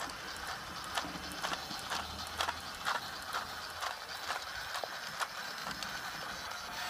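Converted Dickie battery toy train running as a small rail trolley on its test run, giving sharp mechanical clicks about twice a second over a faint running hiss.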